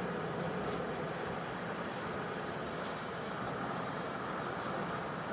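Steady rushing noise of a running vehicle close by, cutting off suddenly at the very end.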